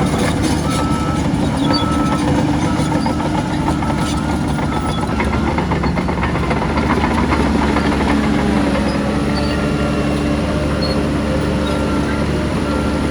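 Diesel engine of a Shantui crawler bulldozer running steadily, with continual metallic clatter from its steel tracks as it pushes soil.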